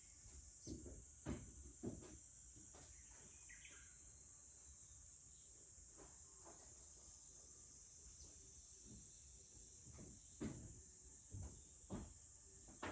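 Wood fire crackling with a few sharp pops, a cluster in the first two seconds and more near the end, under a steady high drone of insects.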